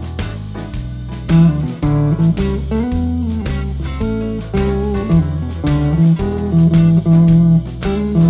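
Clean Fender Telecaster with single-coil pickups, played through a Vox AC10C1 tube amp, picking blues licks with string bends over a blues shuffle backing track with bass and drums.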